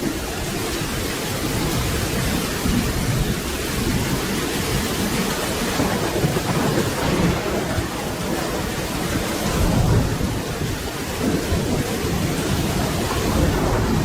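Steady rain falling, with low rolling thunder rumbling underneath that swells about two-thirds of the way through.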